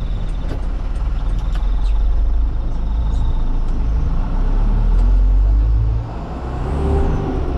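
Truck engine running with a steady deep rumble, a faint high ticking tone over it for the first few seconds; the level drops briefly about six seconds in.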